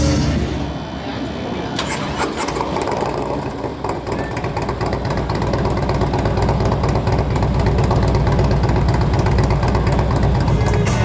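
Motorcycle engine running with a rapid, even firing beat; it comes in about two seconds in, grows louder and then holds steady.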